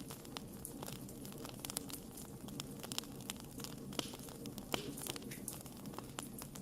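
Wood fire crackling: irregular sharp pops and snaps over a low, steady rustle, with the strongest pops about four and five seconds in.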